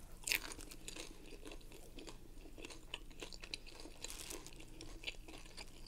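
A person chewing crunchy food: one sharper crunch about a third of a second in, then a steady run of small crackling crunches as it is chewed.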